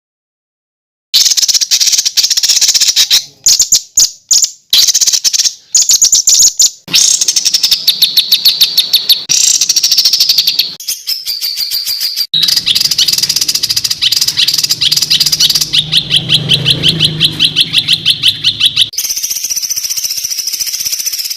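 Edited songbird-song track for bird training: clips of fast, harsh, tightly repeated notes and rapid high trills ('tembakan rapat dan kasar'), spliced one after another with abrupt cuts. It starts after about a second of silence.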